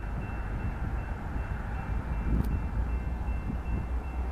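Approaching Union Pacific freight train led by an EMD SD70AH diesel locomotive, still far off: a steady low rumble that grows a little louder about halfway through, with a faint high ringing tone above it.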